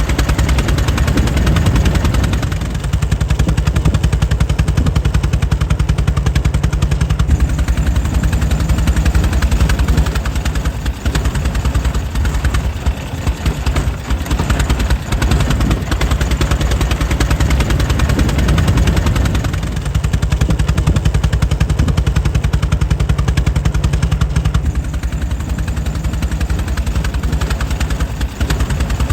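Air-cooled engine of a 1904 Mitchell running steadily, with a fast, even train of sharp exhaust beats. The loudness sags slightly at times, with no change in speed.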